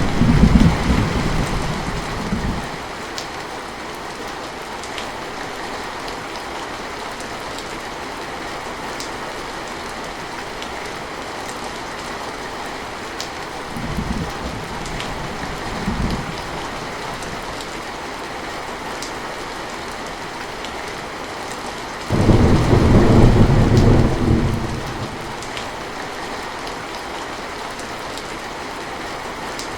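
Heavy rain falling steadily, with thunder rumbling over it. One rumble fades out in the first couple of seconds, two short low rumbles come around the middle, and a louder one starts suddenly about three quarters of the way through and lasts a few seconds.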